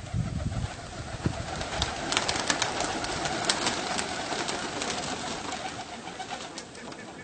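Baghdad pigeons cooing and moving about, with a flurry of sharp taps and rustles through the middle that fades near the end.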